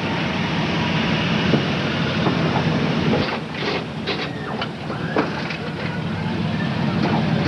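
A vehicle engine running with a steady low rumble, with a short run of clattering knocks about halfway through.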